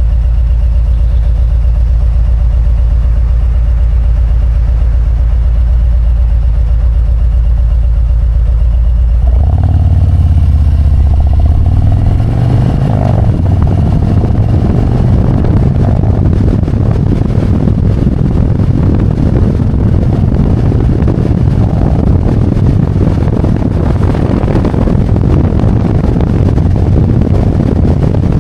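Harley-Davidson Road Glide's V-twin engine idling steadily. About nine seconds in it pulls away, the engine note rising, and then runs on the move under a broad rush of wind noise.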